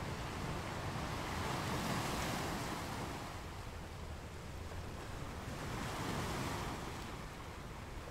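Surf breaking and washing up a sandy beach. It is a steady hiss that swells twice, about two seconds in and again about six seconds in, as each wave comes in.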